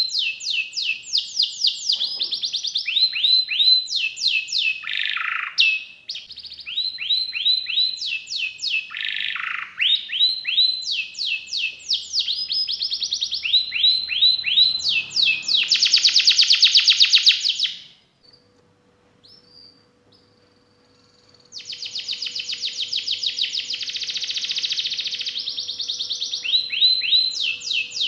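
Domestic canary singing hard: fast runs of repeated down-slurred notes and long rapid rolls. It breaks off for about three seconds past the middle, then comes back with another long roll.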